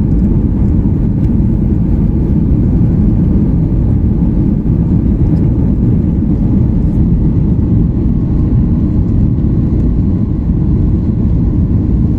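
Loud, steady roar of a Boeing 737's jet engines and rushing air heard inside the passenger cabin during the takeoff run or climb. In the second half a faint tone creeps slightly higher.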